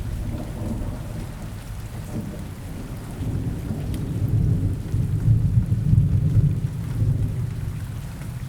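Steady rain falling, under a long low rumble of thunder that swells about five seconds in and fades near the end.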